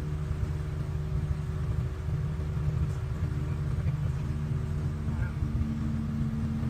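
Steady low drone of a vehicle engine running, holding a constant pitch.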